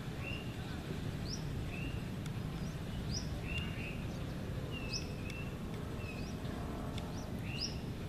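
A small bird chirping repeatedly, short calls about every one and a half seconds, over a steady low outdoor rumble.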